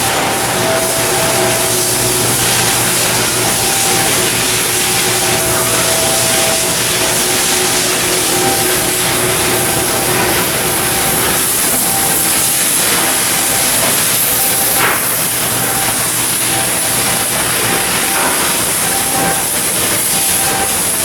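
Shipyard work noise: a loud, steady hiss, with faint on-and-off tones and a few short clicks.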